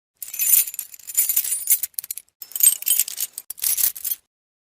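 Small metal objects jingling as they are shaken, in four bursts.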